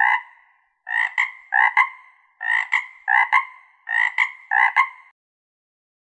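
A frog croaking over and over, the croaks coming in pairs about every second and a half. The croaking stops about five seconds in.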